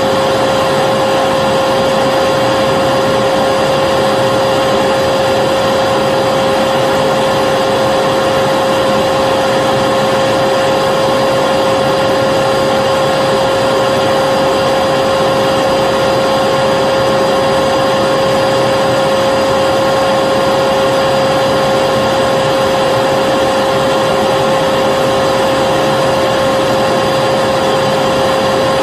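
Vacuum cleaner running steadily: a constant motor hum with a strong steady whine and a rush of air, unchanging throughout.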